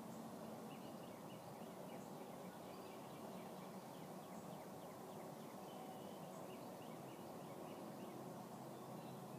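Faint outdoor ambience: birds calling with many short, high chirps over a steady low background rush.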